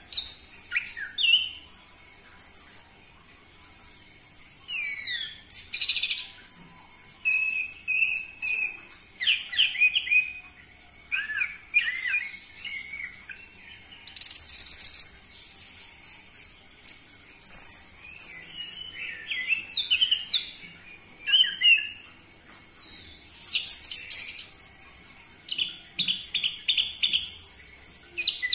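Orange-headed thrush (anis merah) singing: a run of varied, fast, high-pitched phrases of whistles, trills and repeated notes, each about a second long with short pauses between.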